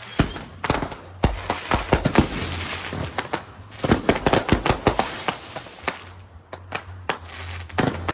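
Consumer fireworks going off: many sharp bangs in quick volleys with hissing between them, thinning out near the end.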